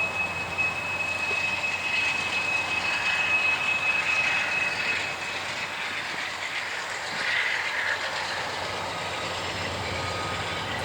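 Union Pacific train rolling on the rails with a steady noise of wheels and cars, and a thin, steady, high-pitched wheel squeal that fades out about halfway through.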